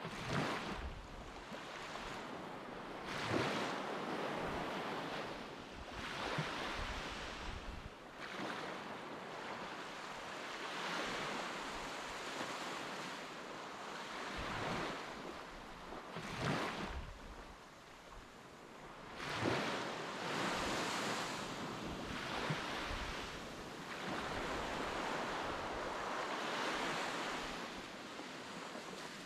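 Sea waves washing, with wind gusting on the microphone; the noise swells and eases every few seconds.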